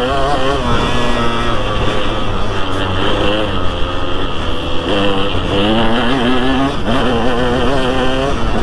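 2003 KTM 200 SX's single-cylinder two-stroke engine revving up and down while ridden on a motocross track, its pitch rising and falling with the throttle.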